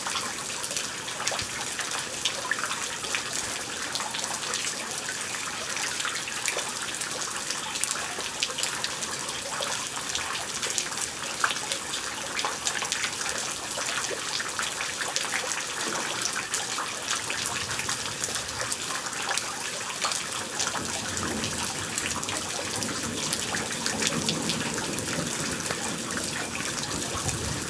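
Thunderstorm rain falling steadily, a dense hiss of countless drops. A low rumble rises underneath in the last several seconds.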